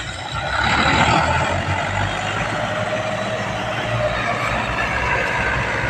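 Heavy tractor diesel engine running steadily.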